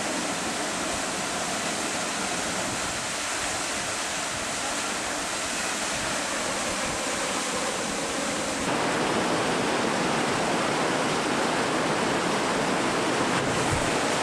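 Rushing river water, a steady roar of moving water. It turns abruptly louder about two-thirds of the way through.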